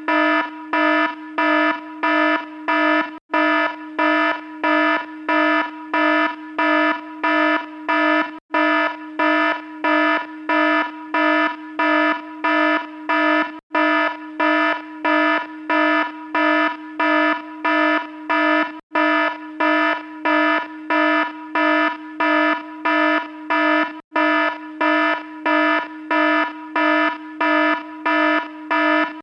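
Electronic alarm beeping: a low, buzzy tone pulsing on and off about twice a second. A brief gap breaks the pattern roughly every five seconds.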